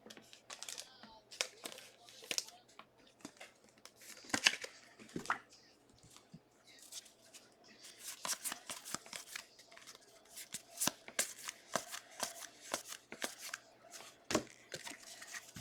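Trading cards handled and flipped through by hand: a scattered run of soft slides, rustles and ticks as cards are pulled from a pack and moved one behind another.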